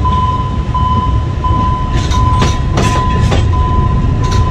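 Narrow-gauge forest railway train with wooden carriages rolling past, a steady low rumble with the wheels clacking over the rail joints. Over it, a high warning tone beeps evenly, about once every 0.7 seconds.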